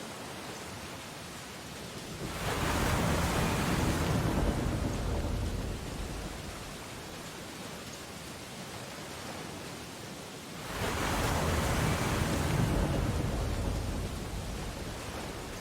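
Ocean waves on a beach: two waves break, one about two seconds in and another about eight seconds later, each surging up and then slowly washing back out, over a steady hiss of surf.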